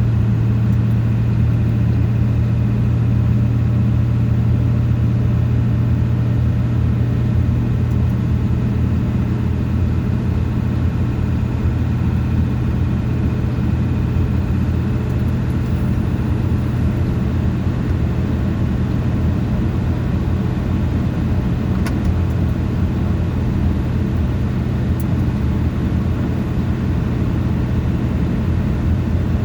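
Motor vehicle driving at a steady speed: an even engine hum over continuous road noise, with no change in pitch.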